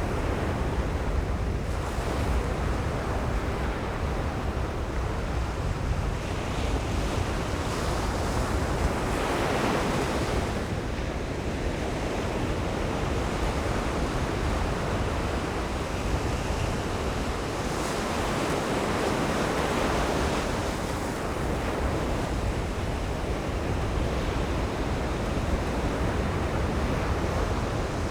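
Ocean surf breaking on a sandy beach, a steady wash with waves swelling louder about nine seconds in and again around eighteen to twenty seconds. Wind buffets the microphone with a low rumble throughout.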